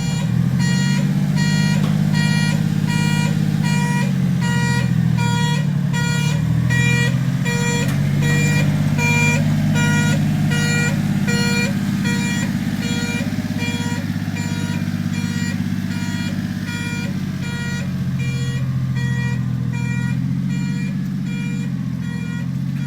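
Small engine of a Japanese mini fire truck running, its pitch rising and falling as it moves, with an electronic beeper sounding steadily about twice a second like a reversing alarm.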